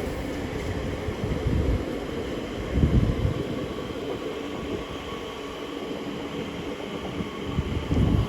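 Elizabeth line Class 345 electric train running into the platform: a steady rumble of wheels on rail with a few low thumps.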